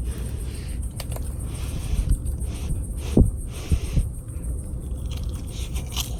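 Wood campfire burning, with a steady low rumble and scattered sharp crackles and pops, the loudest about three seconds in.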